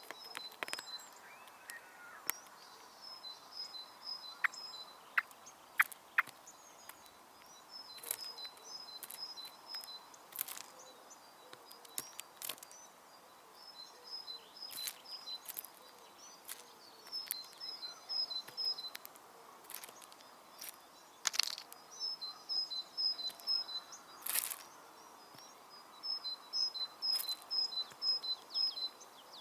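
A songbird repeating a short two-note phrase, high then low, in bursts every few seconds. Sharp clicks and taps are scattered through, over a steady outdoor hiss.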